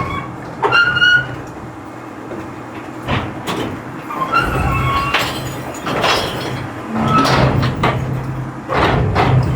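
Garbage truck running, with short high-pitched metal squeals and several sharp clanks and rattles over the steady engine sound.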